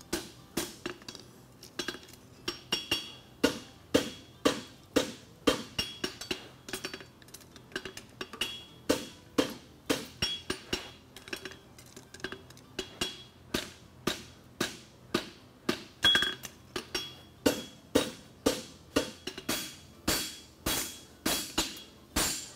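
Forging hammer striking hot steel horseshoe bar stock on an anvil, at a steady rhythm of about two blows a second, each blow with a short metallic ring. The bar is being bent at the toe to start shaping the shoe.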